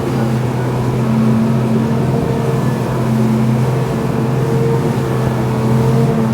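Tour boat's engine running steadily, heard on board as a constant low drone.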